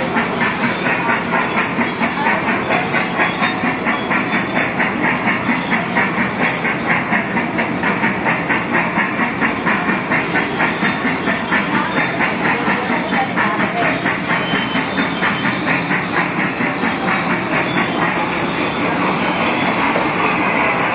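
Small Thomas the Tank Engine ride-on amusement train running steadily, with an even rhythmic clatter of about four beats a second.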